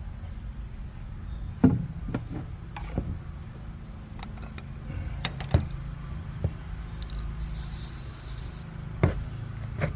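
Scattered knocks and clicks of things being handled, over a steady low hum, with a hiss from a spray can lasting about a second, about seven and a half seconds in.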